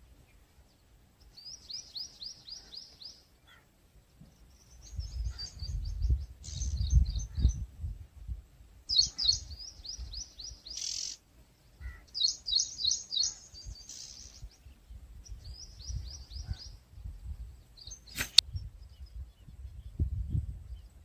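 A songbird singing about six high trilled phrases, each a quick run of repeated notes lasting a second or two, with short gaps between them. A low rumble comes and goes beneath the song, and there is a single sharp click a few seconds before the end.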